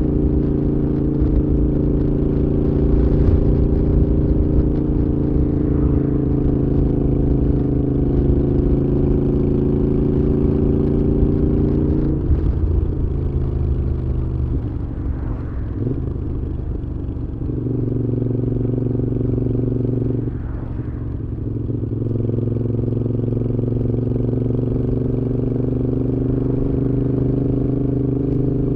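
Moto Guzzi V7's air-cooled transverse V-twin running through a Mistral aftermarket exhaust while riding at steady throttle. The note changes pitch and dips about twelve seconds in and again around twenty seconds, as the throttle is eased and the revs change, then settles back to a steady pull.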